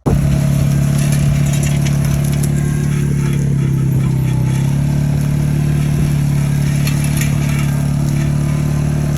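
A motor vehicle's engine running steadily at fairly high revs, its pitch stepping up slightly about halfway through. It starts and cuts off abruptly.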